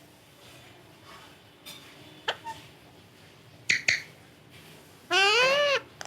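A few sharp clicks, then, about five seconds in, one loud meow-like call that rises and falls in pitch and lasts under a second.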